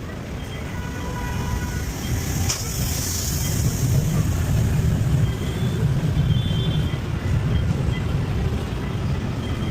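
Steady low rumble of passing vehicles, growing louder over the first few seconds, with a brief hiss about two and a half seconds in.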